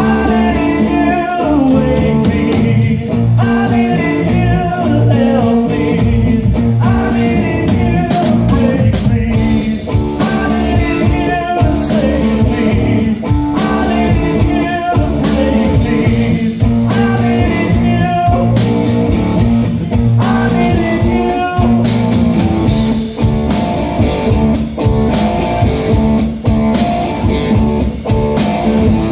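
A blues-rock band playing live: guitar over bass and a steady drum beat, with a singer's voice.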